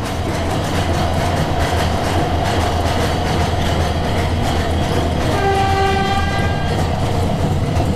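Steady rumble and rattle of a narrow-gauge passenger train running on its track, heard from aboard. About five seconds in, a train horn sounds one steady note for about two and a half seconds.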